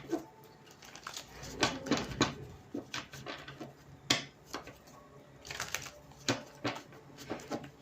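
Tarot cards being handled: an irregular series of soft clicks, slaps and brushing sounds as cards are shuffled, drawn and laid down on a table.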